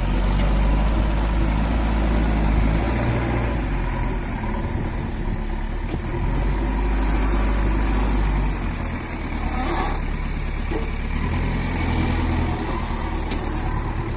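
JCB 3DX backhoe loader's diesel engine running under load, with a steady low engine note that drops and changes about eight and a half seconds in.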